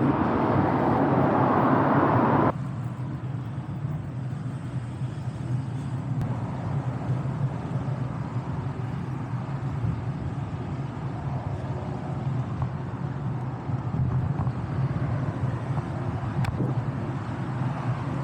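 Steady wind and road noise while riding a bicycle along a roadway. A louder rushing noise fills the first two and a half seconds, then cuts off suddenly.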